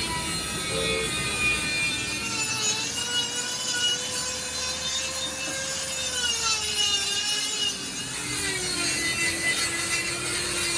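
A power tool working on metal, running with a steady tone that wavers and drops slightly in pitch about three-quarters of the way through, over a high hiss.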